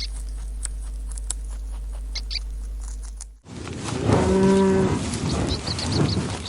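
A cow moos once, a steady pitched call about a second long, beginning about four seconds in over outdoor background noise. Before it, a steady low hum with scattered clicks runs until a sudden cut.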